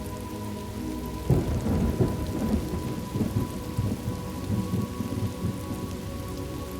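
Thunderstorm ambience: steady rain, with a thunderclap about a second in that rolls and rumbles for several seconds before fading. A soft sustained music drone sits underneath.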